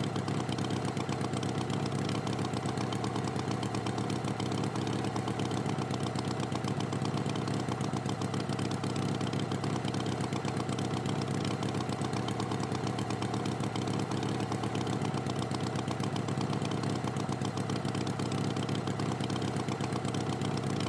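Tractor engine idling steadily, with a fast, even pulse.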